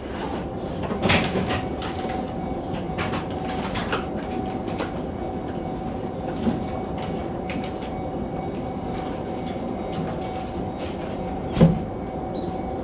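Sotetsu 10000 series electric commuter train running at steady speed, heard from inside the front car: wheels on rail with a steady hum and scattered rail-joint clicks, and one louder knock near the end.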